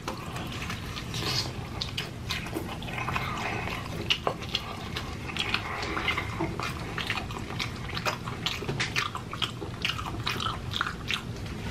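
A person biting and chewing crispy fried chicken, with many small crunches and clicks.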